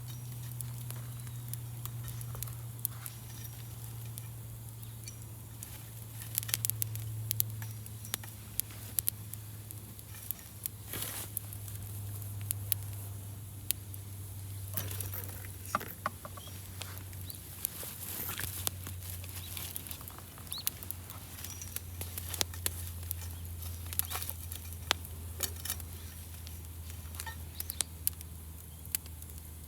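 Wood fire crackling, with irregular sharp pops and snaps. A low steady hum runs underneath and sinks slowly in pitch.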